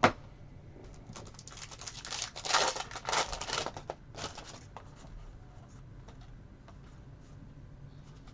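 A trading-card pack wrapper crinkles and cards rustle as they are handled: a sharp click at the start, then a cluster of rustling bursts from about one to four seconds in.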